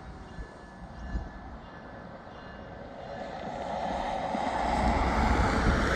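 Freight train approaching after sounding its horn: a rumble of locomotives and wheels on rail that grows steadily louder through the second half.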